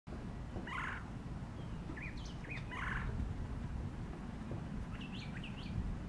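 Birds calling: two harsh, scratchy calls about a second and three seconds in, short high chirps between them, and a quick run of rising chirps near the end. A steady low rumble of background noise lies under the calls.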